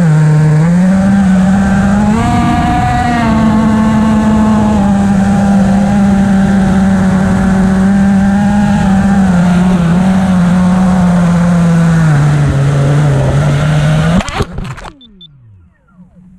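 Five-inch FPV quadcopter's brushless motors (T-Motor F40 III 2306, 2400KV) and three-blade props buzzing in flight, the pitch rising and falling with throttle. About fourteen seconds in the buzz stops abruptly and the motors spin down with falling whines.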